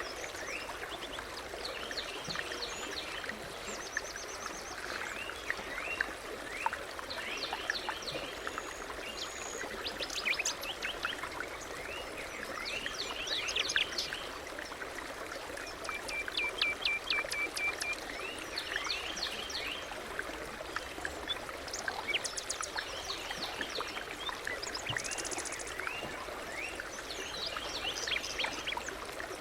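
Several songbirds singing and chirping, with quick rising and falling notes and a fast trill in the middle, over the steady rush of a stream.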